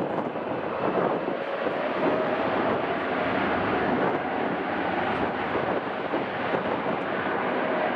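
Airliner engines running, heard as a steady rushing noise with a faint steady whine running through it from a few seconds in.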